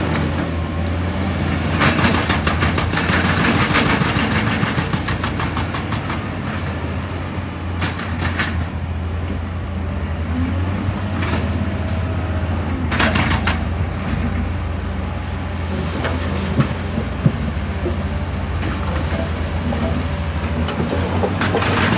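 Excavator's diesel engine running steadily under load, with several short bursts of rapid clattering as it works on rock: about two seconds in, around eight and thirteen seconds, and near the end.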